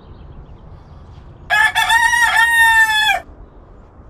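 A rooster crowing once: a single loud call of nearly two seconds with a brief break partway through.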